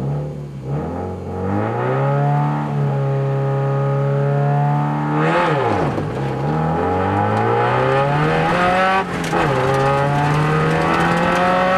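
Subaru Impreza WRX STI rally car's turbocharged flat-four engine, heard from inside the cabin, accelerating hard with climbing revs. The revs drop sharply about six seconds in and briefly again about nine seconds in, then climb again.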